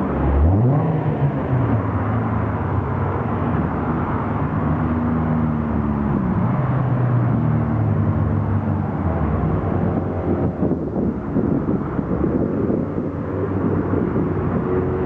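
Lotus sports car engines revving and accelerating, the engine pitch climbing sharply about half a second in, then rising and falling again several times.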